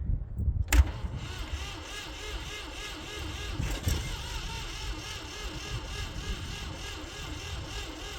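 Ford 3400 tractor's three-cylinder gasoline engine being cranked by its starter, turning over with an even pulse without catching: a cold-weather no-start. A sharp click comes just before the cranking begins, about a second in.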